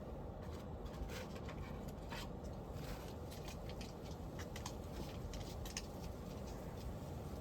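Faint, irregular light clicks and rustles from stray kittens moving about, over a steady low background rumble.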